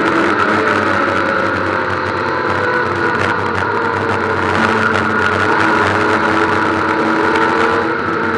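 Ford Puma Cup race car's engine running hard at speed, heard from inside the stripped cabin. Its pitch eases down slowly over the first few seconds, then holds fairly steady.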